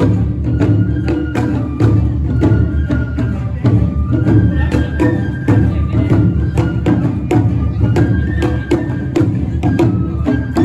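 Live Awa Odori procession music: a high bamboo flute melody over drums and other percussion beating a fast, even rhythm.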